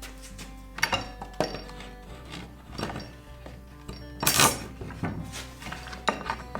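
Several short knocks and clinks of the wooden parts and hardware of a rim clamp being handled and fitted together, the loudest a brief clatter a little past halfway, over background music.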